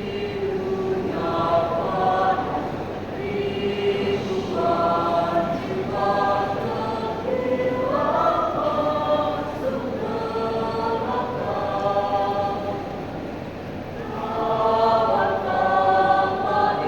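Youth choir singing, many voices together in held phrases.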